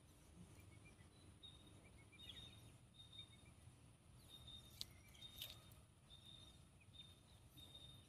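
Near silence, with a bird calling faintly: a short, high, thin note repeated about twice a second, and a couple of faint clicks near the middle.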